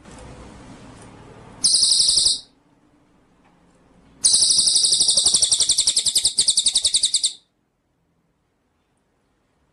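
A songbird giving two loud, high-pitched, rapidly pulsed trills, a short one and then a longer one of about three seconds. The recording cuts off abruptly after the second trill.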